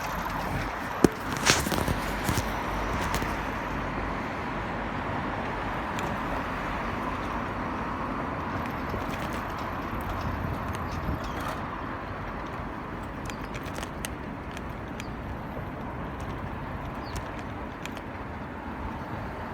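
Steady rushing noise of riding a bicycle: wind on the microphone and tyres rolling on the road, with two sharp clicks about a second in.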